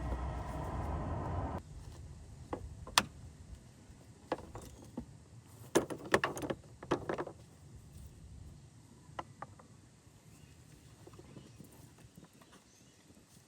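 A steady machine noise cuts off abruptly about two seconds in. It is followed by scattered clicks and knocks of tools and parts being handled, with a quick cluster of them about halfway through.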